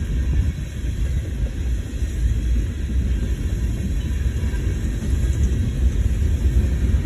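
Freight train rumbling steadily past, a low, even rumble without horn or distinct clanks.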